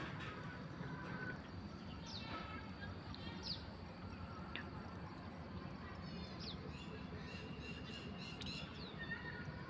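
Small birds chirping outdoors: a few short, sharply falling chirps and brief trills scattered through the clip over a steady low background rumble.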